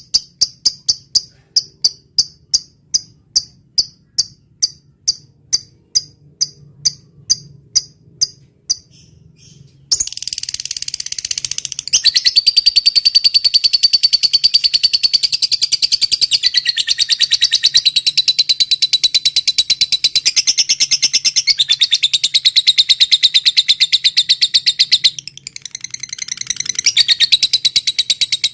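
An insect chirping steadily, about two and a half high chirps a second, stops about nine seconds in; after a short pause a lovebird starts a long, fast, high chattering trill that runs on with only a brief break near the end.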